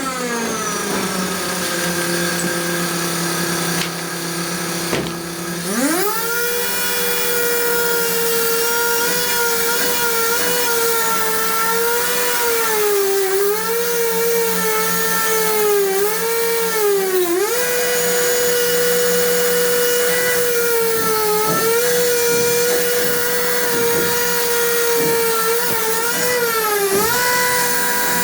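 Electric power tool motor whining: it winds down, restarts and spins back up about six seconds in, then runs at speed with its pitch sagging repeatedly as it bites into the work.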